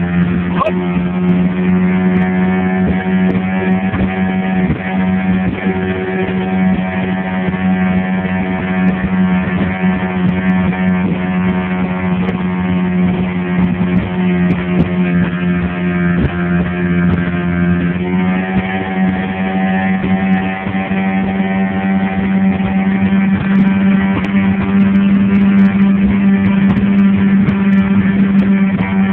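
Boat engine running at a steady cruising speed, one unbroken drone whose pitch steps up slightly about two-thirds of the way through.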